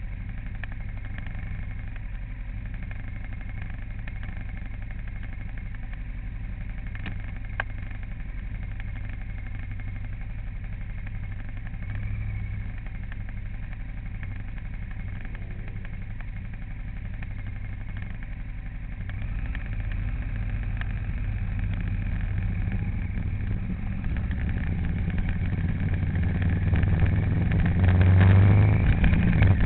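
Vehicle engine running steadily, growing louder over the last third, with a single sharp click about seven and a half seconds in.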